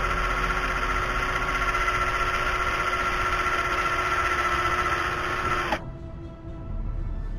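Cordless drill motor running at a steady speed, then cut off suddenly near the end, with the bit sunk into the broken plastic dipstick.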